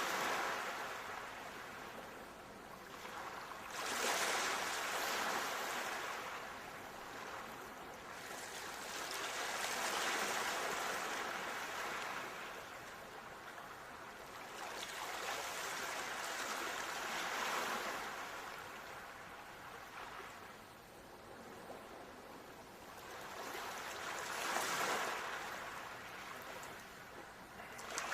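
Ocean surf: waves breaking and washing in slow surges, swelling and falling back about every six or seven seconds, four times.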